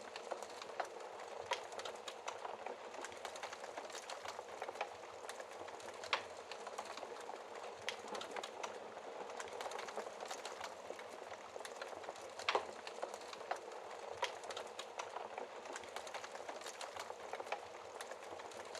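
Wood fire crackling in a fireplace: a steady hiss with frequent sharp snaps and pops, a few of them louder than the rest.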